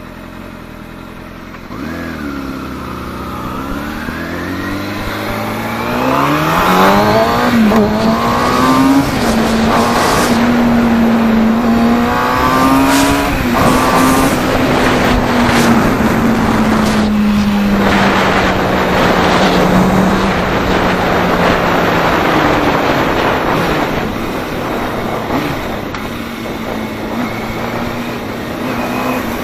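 Kawasaki Ninja sport motorcycle engine accelerating hard, its note climbing over the first several seconds. It then holds a high, fairly steady pitch at speed over heavy rushing wind noise, eases lower about two-thirds through, and begins to climb again at the end.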